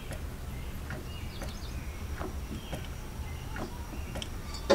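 Faint bird chirps over a low steady hum, with a short sharp click near the end.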